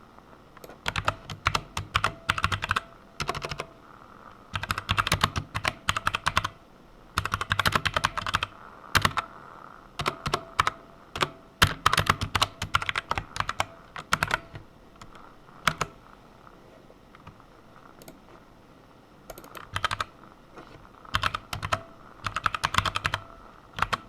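Typing on a computer keyboard in quick bursts of keystrokes, with short pauses between them and single key presses here and there.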